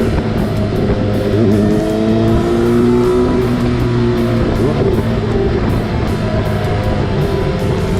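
Motorcycle engine running on the road, its pitch slowly rising and falling, under wind rush, with background music mixed over it.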